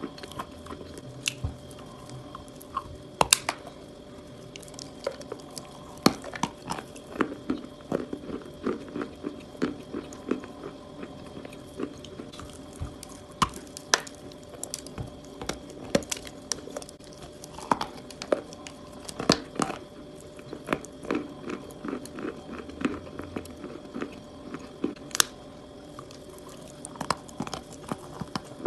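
Close-miked chalk eating: crisp bites and crunchy chewing, an irregular run of sharp cracks several times a second, with a faint steady whine underneath.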